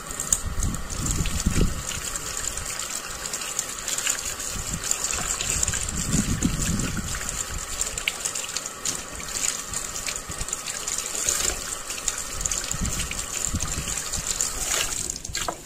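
Running water gushing steadily, with a few low knocks, cutting off suddenly near the end.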